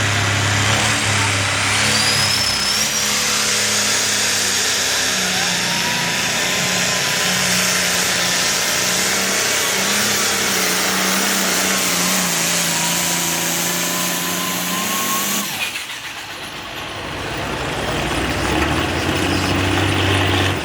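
Turbocharged diesel pulling tractor running hard under load, with a high whine slowly climbing in pitch. About sixteen seconds in the engine drops off sharply, then picks up again near the end.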